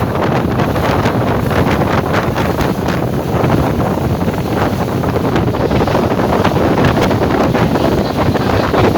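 Wind buffeting the microphone on a moving boat: a loud, steady rush with many small crackles, over the noise of the boat underway.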